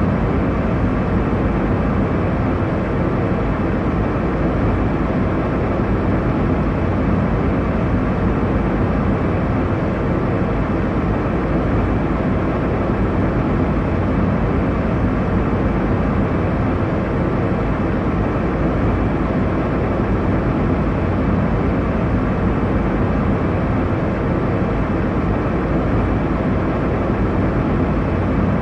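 Airliner cabin noise in flight: a steady, deep rush of engine and airflow noise, even throughout and strongest low down.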